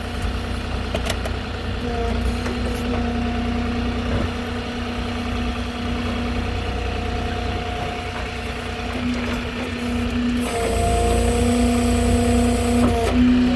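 Moffett truck-mounted forklift's engine idling steadily with a constant hum. About ten and a half seconds in it gets louder.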